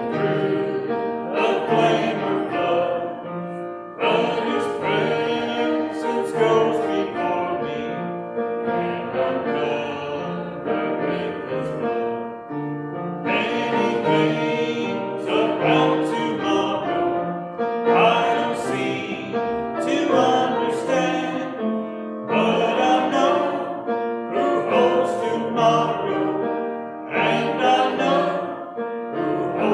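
A congregation singing a hymn with piano accompaniment.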